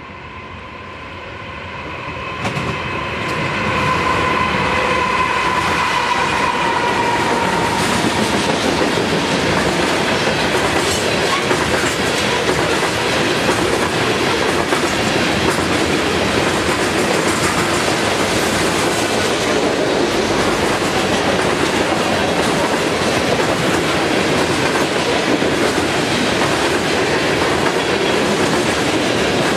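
Freight train passing close by. For the first several seconds a held tone of several notes fades out as the loudness rises. From about four seconds in, the covered hopper cars rumble past steadily with the clickety-clack of wheels over the rail joints.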